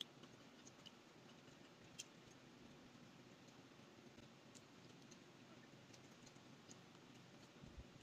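Near silence: faint room tone with a few small, scattered clicks.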